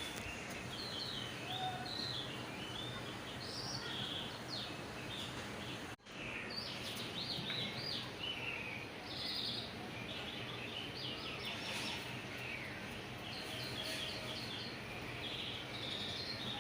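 Small birds chirping in quick, repeated calls over a steady background hiss, with a brief drop-out about six seconds in.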